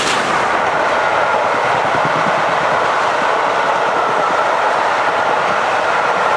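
Rake of passenger coaches behind the steam locomotive Tornado running past at speed, a steady noise of steel wheels rolling on the rails.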